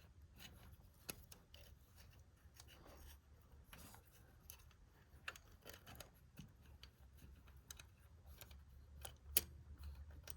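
Faint, scattered small clicks and scrapes of the Pertronix magnetic trigger ring being worked by hand onto the top of the distributor, over a low steady hum.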